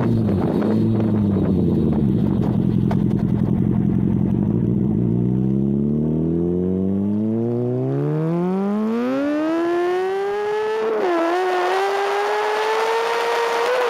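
Sport motorcycle engine at low revs, then accelerating hard: its pitch climbs steadily for several seconds, dips briefly as a gear changes, and holds at high revs.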